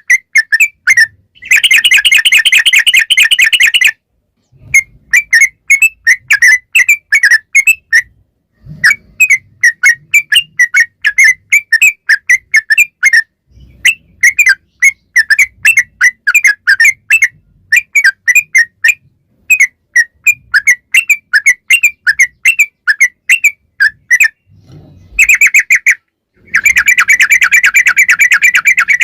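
Yellow-vented bulbul (trucukan) song: a long series of short chirping notes, broken by a burst of fast rolling trill about two seconds in and another near the end.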